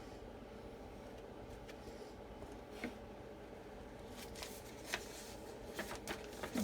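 Quiet handling noises at a craft table: a faint steady hum, then from about four seconds in a scatter of short scrapes, rustles and small taps.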